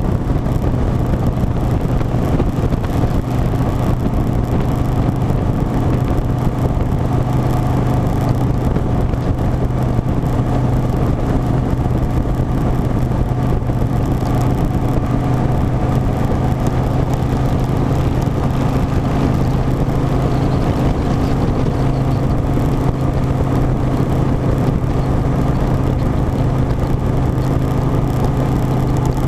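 Harley-Davidson Softail Standard's V-twin engine running at a steady speed, a constant low drone that does not rise or fall.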